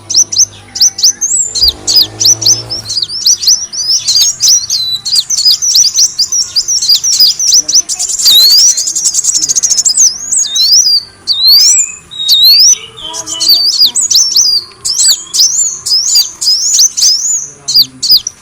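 Kolibri wulung sunbird calling: a steady stream of rapid, high-pitched chirps and quick sweeping twitters, with a brief buzzy trill about eight seconds in. This is a lure-call recording used to attract the species.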